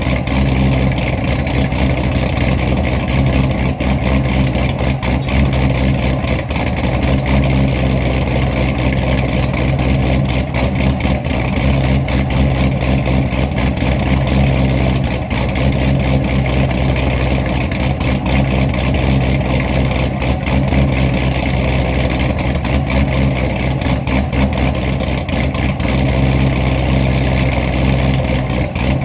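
Supercharged C6 Corvette V8 with an aggressive aftermarket camshaft idling steadily with a choppy, uneven lope.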